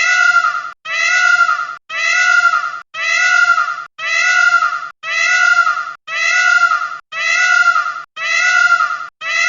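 Peacock calling, a loud wailing call with many overtones repeated about once a second, each call the same as the last.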